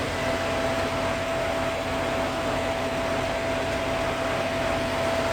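Steady mechanical hum with one constant mid-pitched tone running through it.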